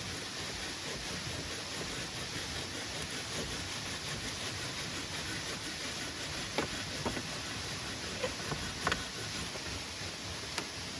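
Steady heavy rain falling, an even hiss, with a few sharp drips or taps standing out in the second half.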